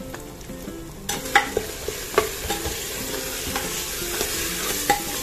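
Minced mutton (keema) frying in its own separated oil in an open pressure cooker, sizzling as a metal ladle stirs it. The sizzle grows about a second in, and the ladle clicks against the pot a few times.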